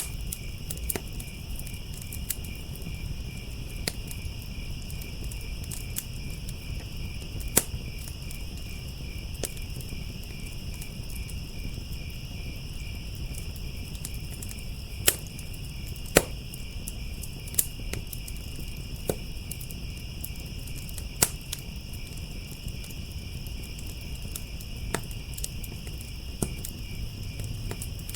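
Crickets trilling steadily in a continuous high chorus over a crackling wood fire, with irregular sharp pops and snaps from the burning wood, a few of them much louder than the rest.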